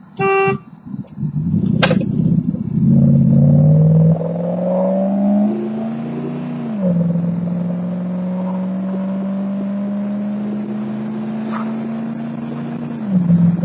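Wood gas-powered truck accelerating hard through a quarter-mile run. The engine climbs in pitch through the gears and drops at each of three upshifts, about four, seven and thirteen seconds in, with a short car-horn honk right at the start.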